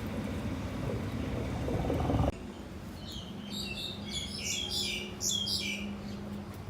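A loud, dense rumble of surrounding noise cuts off abruptly about two seconds in. After that a small bird chirps in a quick run of short, varied calls for about three seconds, over a faint steady hum.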